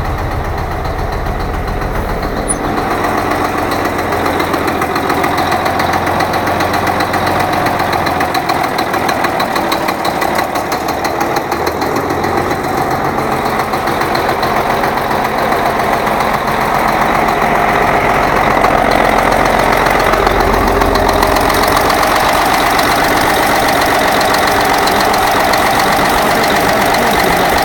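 Altai T-4 crawler tractor's diesel engine running steadily at idle with a fast, even knock, getting a little louder about two-thirds of the way through.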